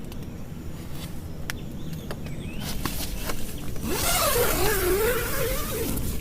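Steady rain with scattered sharp drip ticks. About four seconds in, a wavering, whining tone rises and falls for about two seconds over a burst of hiss.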